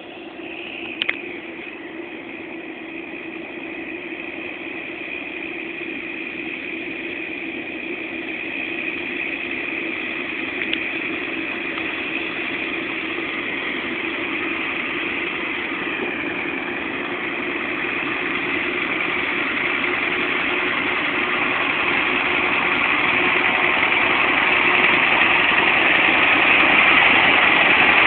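John Deere 6930 tractor's six-cylinder diesel engine running steadily while ploughing, growing steadily louder as it draws nearer. A single brief click sounds about a second in.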